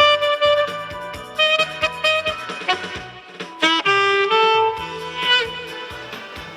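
Tenor-range saxophone playing a slow melody of long held notes, with a quick upward run about three and a half seconds in and a note shaken with vibrato near the end, over a backing track with a steady drum beat.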